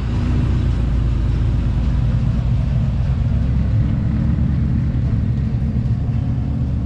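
A car engine running with a loud, deep exhaust rumble, steady throughout, its pitch edging slightly higher about three seconds in.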